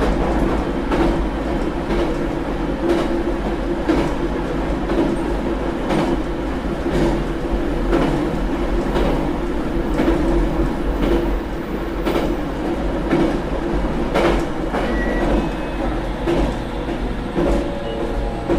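Onboard running sound of a JR Kyushu 817 series electric train at speed: a steady rumble of wheels on rail with a steady hum and rail-joint clicks roughly once a second. A few brief faint high tones come near the end.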